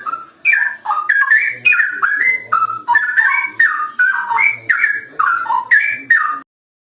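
Straw-headed bulbul (cucak rowo) in full song: a fast, loud run of bubbling whistled notes that jump up and down in pitch, stopping short near the end.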